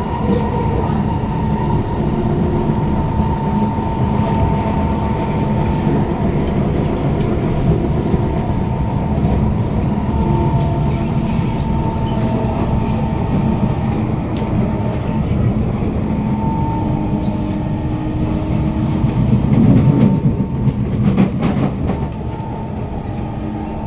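Kawasaki Heavy Industries C151 metro train heard from inside a carriage while running on the line: a steady rumble of wheels on rail with held whining tones from the GTO-VVVF traction motors. About twenty seconds in there is a louder clattering stretch of wheels over track, and the sound eases slightly near the end.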